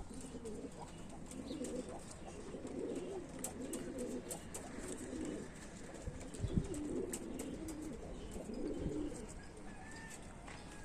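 Domestic pigeons cooing, several low warbling coos one after another.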